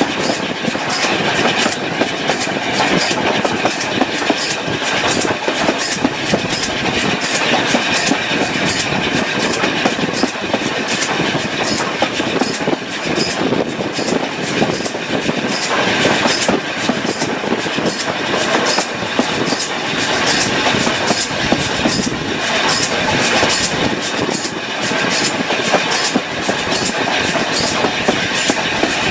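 Train running at steady speed, its wheels clicking over the rail joints in a continuous clickety-clack.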